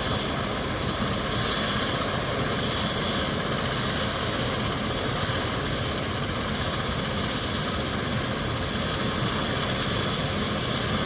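Medical helicopter running on its pad: a steady rush of turbine engine and rotor with a high whine over it.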